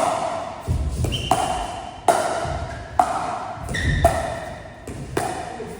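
Pickleball paddles hitting a plastic ball in a steady back-and-forth drill, a sharp pock about once a second, echoing in a large hall. A couple of short high squeaks come between the hits.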